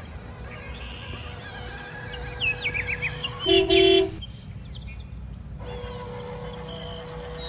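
A short, loud horn toot about halfway through, over a low rumble, a steady hum and repeated bird-like chirps.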